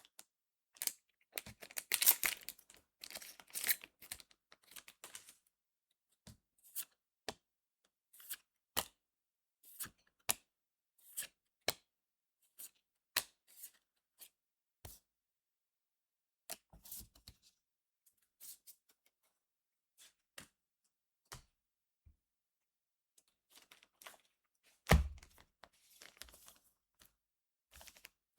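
A trading-card booster pack's wrapper is torn open in a burst of tearing and crinkling, followed by a long string of separate sharp clicks and snaps as the cards are handled and flicked through. A heavier thump comes near the end.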